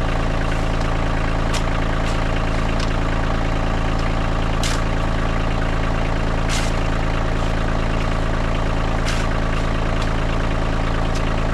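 Tractor engine running steadily at a constant speed, with a few short, sharp clicks or rattles every couple of seconds.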